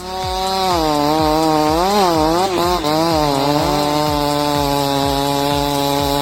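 Two-stroke chainsaw engine running at high revs, revving up and down for a couple of seconds, then holding a steady pitch.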